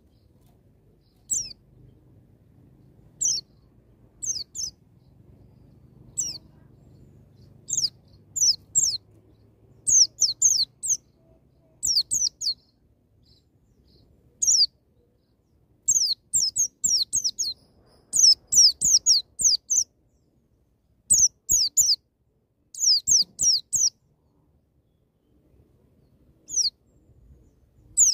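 White-eye (pleci) singing in the rapid wild 'nembak' style: short, high, downward-sliding chirps, some alone and others in quick runs of three to six, separated by short pauses.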